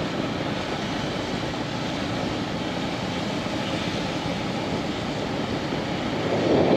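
Steady wind rush and road noise of a motorcycle ride, heard on the rider's camera microphone; it swells briefly louder near the end.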